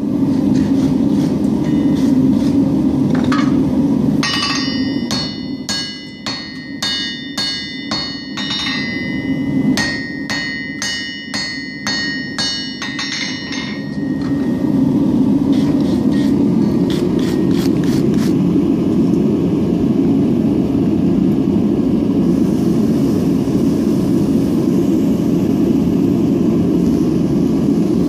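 Hand hammer striking hot steel on an anvil, about two ringing blows a second for roughly ten seconds, then a few lighter taps. A steady low rushing noise runs underneath.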